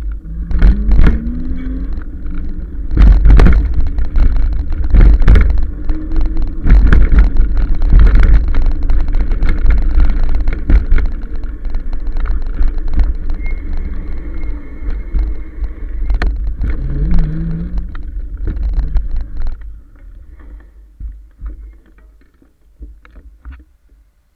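Riding an electric bike: heavy wind rumble on the microphone with knocks and rattles, and a short rising motor whine twice as the bike speeds up. The noise falls away sharply near the end as the ride slows.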